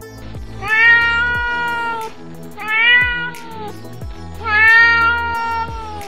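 Cat meowing three times, a long meow, a short one and another long one, over background music.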